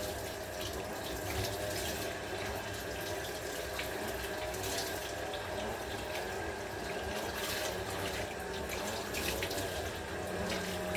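Heavy rain: a steady rush of falling and pouring water.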